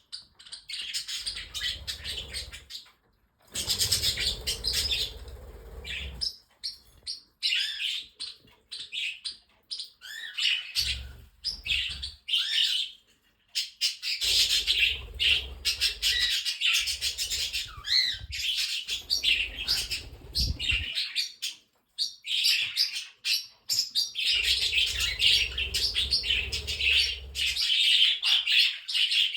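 Pet budgies chattering and warbling with quick chirps, joined by cockatiels and parrotlets in a small indoor flock. The chatter comes in stretches several seconds long, each cut off by a sudden brief silence.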